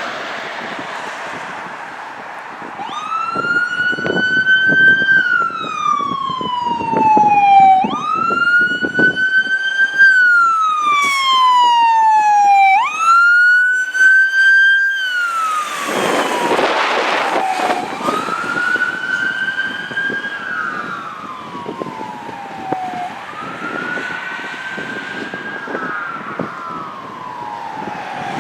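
Fire engine's siren wailing, rising and then falling slowly about every five seconds, over engine and road noise. There is a loud rush of noise about halfway through, and after it the wail is fainter.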